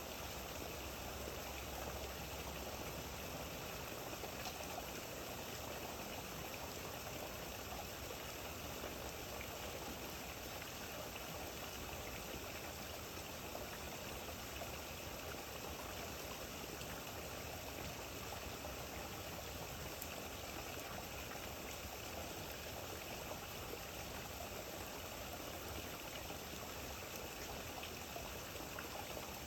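Steady rain falling, an even hiss that holds level throughout, with a few faint ticks of drops.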